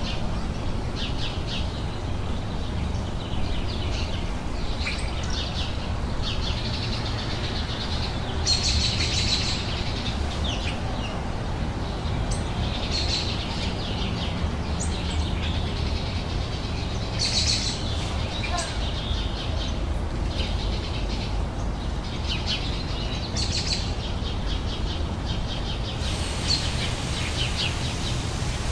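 Small songbirds chirping and singing in repeated short phrases, with louder bursts of song about 8, 17 and 23 seconds in. A steady low rumble runs underneath.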